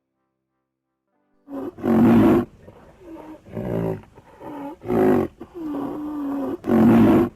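A large animal calling repeatedly: after a silent start, a run of loud, low calls of different lengths, one of them long and fairly steady, with the loudest calls at the beginning and end of the run.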